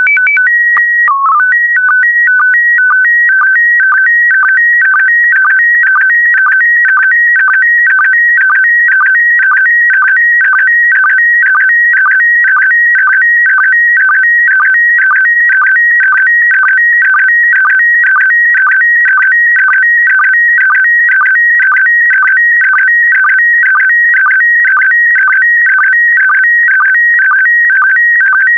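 Slow-scan television (SSTV) signal in PD120 mode being transmitted: high electronic tones that open with a brief run of shifting header tones, then settle into a warbling pattern repeating about twice a second as the image is sent line by line.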